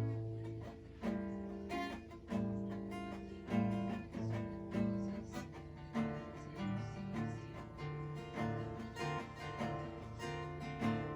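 Background music: acoustic guitar plucking and strumming notes.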